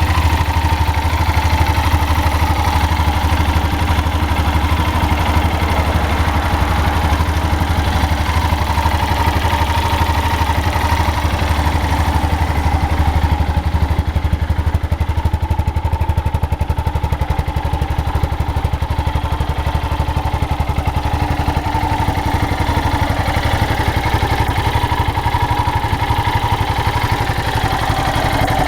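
Yamaha XT 660 X's 660 cc single-cylinder four-stroke engine idling steadily, with an even thumping beat.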